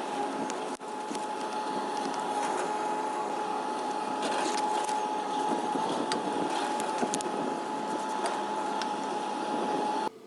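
A power tool's small electric motor running steadily with a constant whine, with scratchy clicks scattered through it. It cuts off abruptly near the end.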